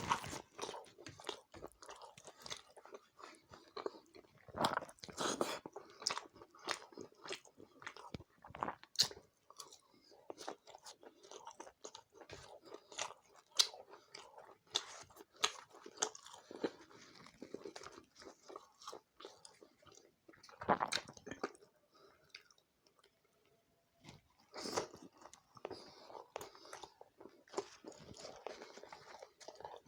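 Close-up chewing and biting of dry chicken curry with rice and roti: irregular wet mouth clicks and crunches, with a short lull about three quarters of the way through.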